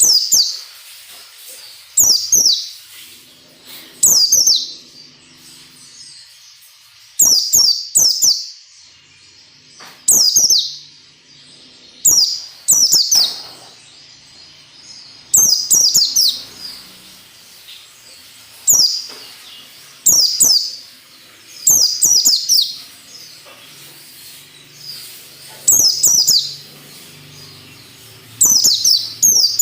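White-eye (pleci) singing in short, loud 'nembak' bursts about every two seconds, each a quick cluster of high notes falling in pitch.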